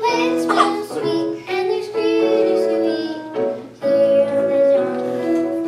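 Children singing a song together over musical accompaniment.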